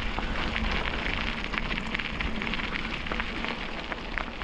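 Tyres rolling over a rough path: a steady crackling hiss dotted with small clicks, with wind rumbling on the microphone underneath.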